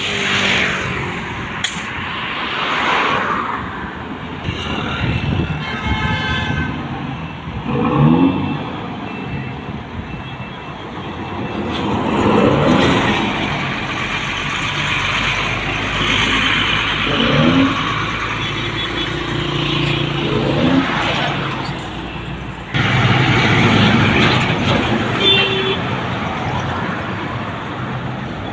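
Buses and cargo trucks passing one after another at speed on a highway: engine and tyre noise swells and fades with each pass, and horns sound a few times, around six seconds in and again near the end.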